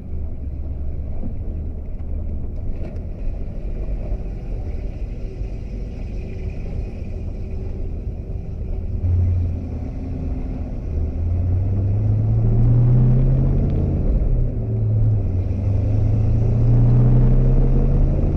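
Pontiac 400 V8 in a 1979 Trans Am running steadily at low speed. About halfway through it pulls harder, its pitch rising, dropping and rising again as it accelerates.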